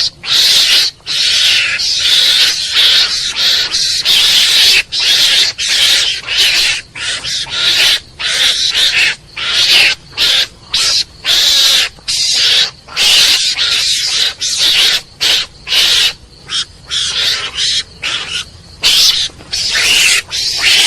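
Mongoose calling: a rapid, irregular series of harsh, hissing calls, each under a second long, with short breaks between them.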